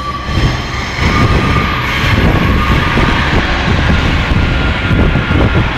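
A Class 144 Pacer diesel railbus passing close by over a level crossing: its underfloor diesel engine runs loudly and its wheels rumble over the rails.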